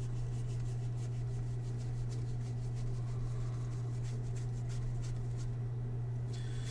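Baseball cards being handled and slid against one another, with faint papery rustles and light ticks, over a steady low hum.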